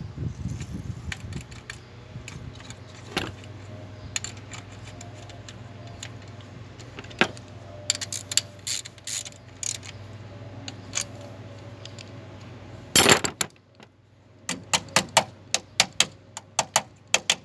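Metallic clinks and clicks of hand tools working on a pickup's battery and terminals over a steady low hum. About 13 seconds in there is a loud rustling clatter, after which the hum is gone and a quick run of sharp clicks follows, like a ratchet wrench being worked.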